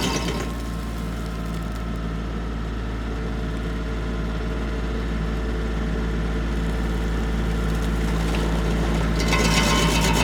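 Tractor engine running steadily under the stump grinder, an even engine hum. A harsher, brighter noise drops away about half a second in and comes back near the end.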